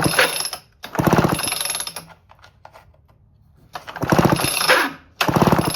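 1978 Homelite XL12 chainsaw's recoil starter pulled four times, each pull spinning the engine over with a fast ratcheting whir for about a second. The spark plug is out for a spark test, so the engine turns over without firing.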